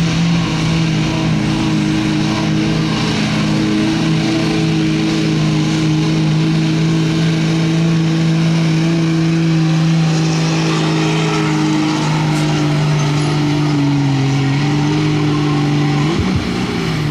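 Dodge pickup's engine running flat out at high, steady revs as it drags a weight-transfer pulling sled, the pitch sagging slightly toward the end as the load builds.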